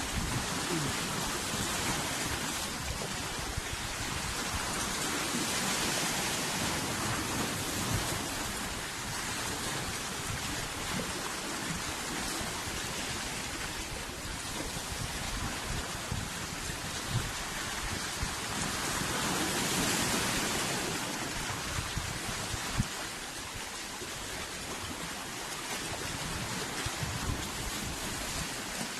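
Wind blowing and sea waves washing: a steady rushing noise with gusty low rumble, swelling twice and easing off.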